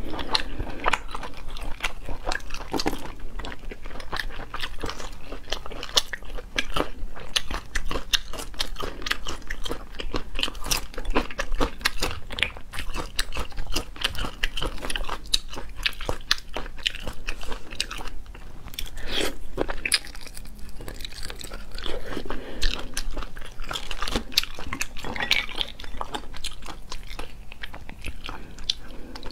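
A person chewing and biting marinated sea snail meat close to the microphone: a steady stream of small wet clicks and crunches.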